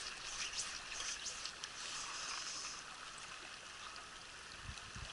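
Steady rush of a mountain trout stream's flowing water, with a few soft low knocks near the end.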